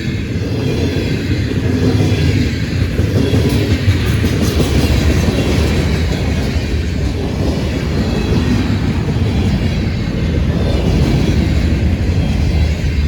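Freight train rolling past at speed: a steady, loud rumble of steel wheels on rail.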